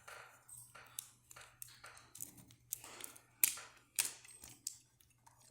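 Hard plastic Lego pieces clicking, snapping and tapping together as a model is handled and assembled, in a string of irregular sharp clicks, the loudest two about three and a half and four seconds in.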